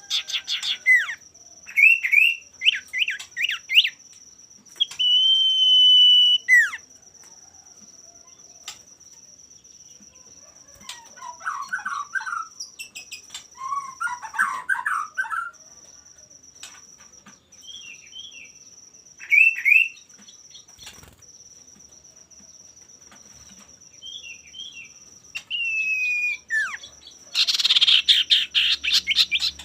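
Male common iora singing in bursts: clear whistled and down-slurred notes, one long held whistle, lower warbled phrases, and a harsh rattling chatter near the end, with pauses between phrases.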